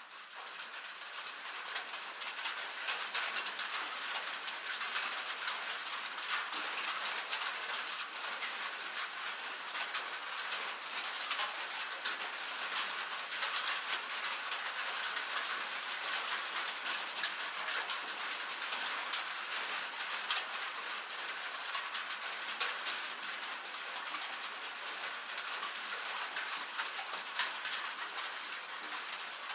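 Rain falling on a metal roof: a dense, steady patter of countless small drop ticks, fading in over the first couple of seconds.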